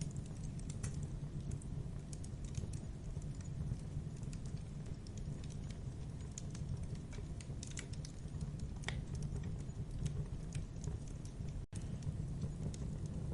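Campfire crackling: irregular sharp pops and snaps over a steady low rumble of burning wood. The sound cuts out for a split second near the end.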